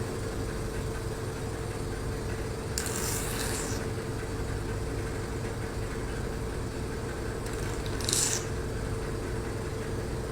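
Hydrodermabrasion facial machine running: the steady hum of its vacuum pump, with two short hisses of suction at the handpiece, about three seconds in and again about eight seconds in.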